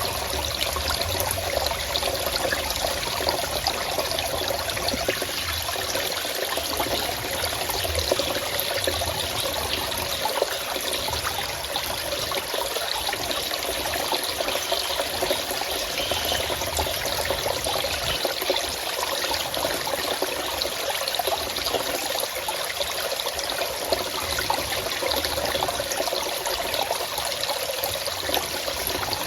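Forest stream running steadily, water trickling and splashing over rocks.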